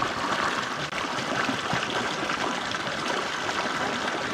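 Small mountain stream running over rocks: a steady, even rush of flowing water.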